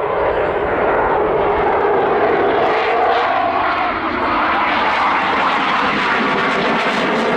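Eurofighter Typhoon jet flying past, its engine noise a loud, steady rush with a slowly shifting pitch.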